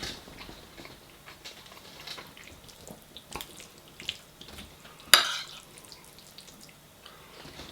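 Eating and the handling of food and containers: scattered small clicks and scrapes, with one sharp clatter about five seconds in.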